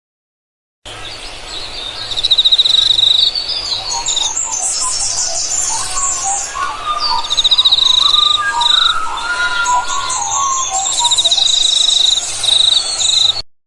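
Several birds singing and calling together, with fast buzzy trills repeated over and over among many shorter chirps and whistles. It starts about a second in and cuts off abruptly near the end.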